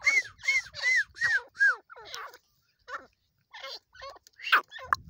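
Partridge (teetar) calling: a quick run of about five arched notes, each rising then falling, roughly three a second. Then a pause of about a second, followed by scattered harsher notes with one loud, sharp note near the end.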